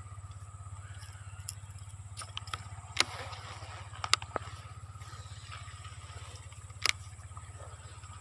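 A steady low drone with a fine, even pulse, like a small motor running, with scattered sharp clicks and knocks, the loudest about three, four and seven seconds in.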